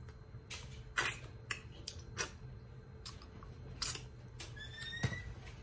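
Close-up eating noises: scattered soft wet clicks and smacks as turkey wing is chewed and picked apart, over a low steady hum. A brief faint rising squeak near the end.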